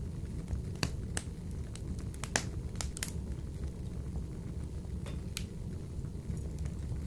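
Wood fire burning in a wood-burning stove: irregular sharp crackles and pops, a cluster of them a couple of seconds in, over a steady low rush of the flames.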